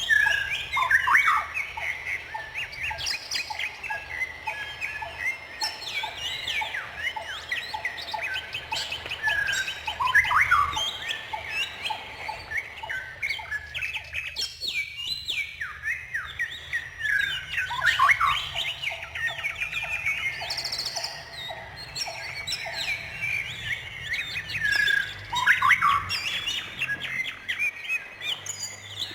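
Several songbirds chirping and singing at once: a dense chorus of overlapping whistles and chirps, with quick rattling trills now and then.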